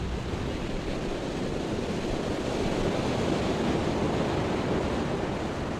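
Steady wash of ocean surf, an even rushing noise with no distinct breaks or calls.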